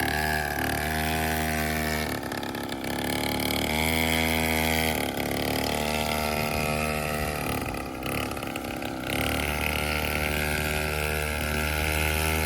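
Small dirt bike engine running, its note shifting up and down as the throttle is opened and eased, then holding steady for the last few seconds.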